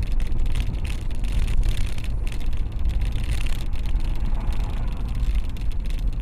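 A moving car: steady heavy low rumble of engine, road and wind noise, with scattered crackle in the upper range.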